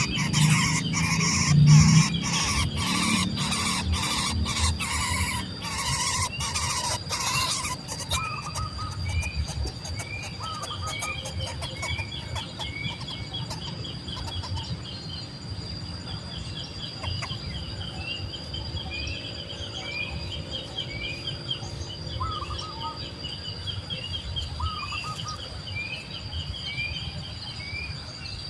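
Nestling birds begging with rapid, high squealing chirps for the first several seconds. Then a bird's short rising chirp repeats about once a second over a steady high insect drone.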